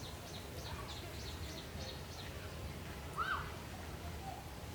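Small birds chirping: a quick run of short, high, falling chirps in the first second and a half, then one lower, arched call a little after three seconds in.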